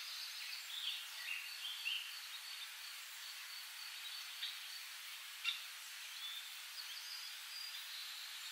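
Light spring rain falling on a pond, a steady faint patter. A few short bird chirps sound in the first couple of seconds.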